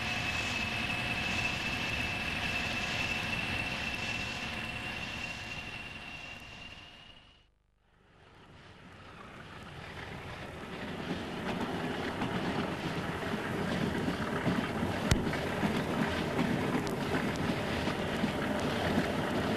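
Diesel train sounds: a steady running noise with a high whine that fades out about seven seconds in. After a brief gap, the rumble of a train moving along the track builds up, with a single sharp click about fifteen seconds in.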